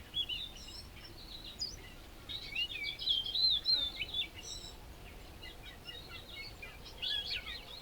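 Small birds chirping and twittering in quick bursts of short high notes, busiest about two and a half to four seconds in and again near the end.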